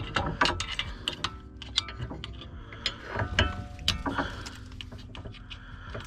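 Irregular metallic clinks and knocks of a screwdriver working against metal suspension parts, prying at a brake-line clamp.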